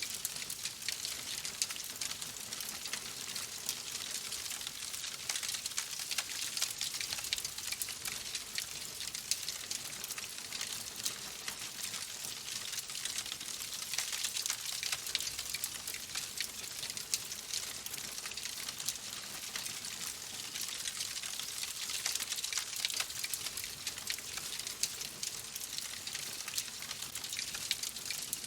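Wood fire crackling: a steady soft hiss with a dense scatter of small pops and snaps.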